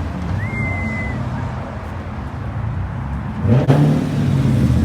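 Car engine running with a low rumble, then revving up and getting louder about three and a half seconds in. A brief high squeak sounds under a second in.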